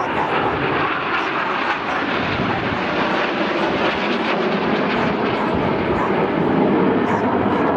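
BAE Hawk T1 jets flying a display, a steady jet rush that grows a little louder near the end.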